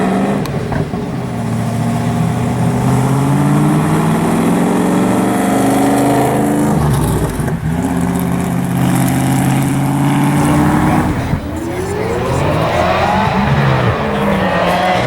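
Sports car engines running and accelerating, their pitch climbing and dropping with the revs, with a quick rising rev about eleven seconds in that then falls away.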